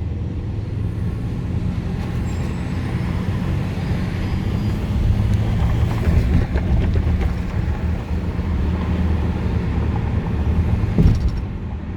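Freight train rolling past: a steady low rumble with scattered clatter from the wheels on the rails, and a faint high squeal about two seconds in.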